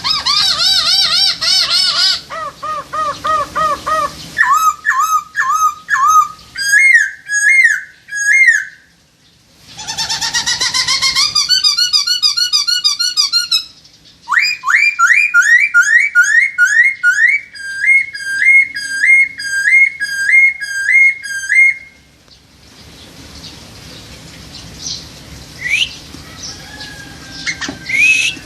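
Songbirds singing loud, clear whistled phrases: white-rumped shama (murai batu) and poksai Hongkong laughingthrush song. Each phrase type is repeated several times before the song switches: a fast warble, rising notes, rapid trills, then a long run of identical upslurred whistles. The singing turns to quieter, scattered calls for the last few seconds.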